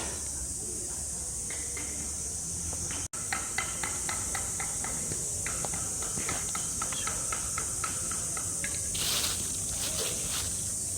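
A steady high-pitched chorus of cicadas, with a run of small clicks and taps from about three seconds in and a short hissing burst near the end.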